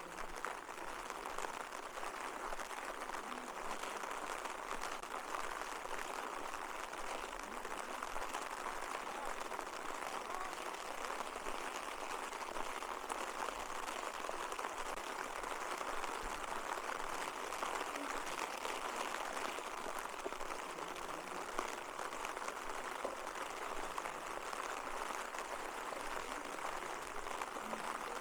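Steady rain falling, an even hiss with no change throughout.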